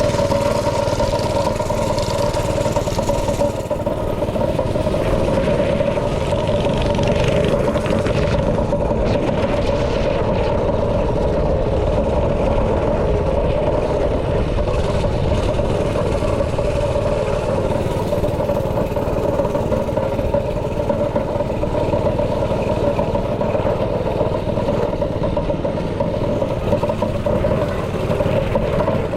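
Small single-cylinder engine on a yard racer running steadily, held at a near-constant speed throughout.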